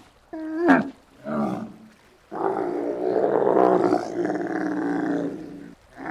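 A large animal calling: two short calls that bend in pitch, then one long, steadier call lasting about three and a half seconds.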